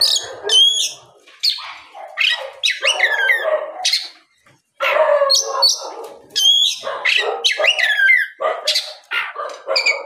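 Oriental magpie-robin (kacer) singing a loud, vigorous song: quick, varied phrases of sweeping whistles mixed with harsher rasping notes, with a brief pause about four seconds in.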